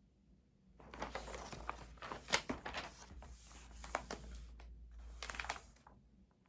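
Paper rustling and crinkling at a desk, a run of quick crackly strokes lasting about five seconds.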